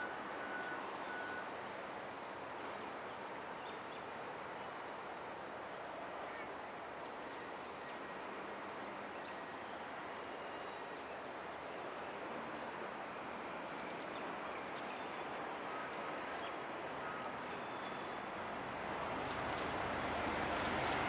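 A train approaching, its sound building over the last few seconds, with faint bird chirps in the background.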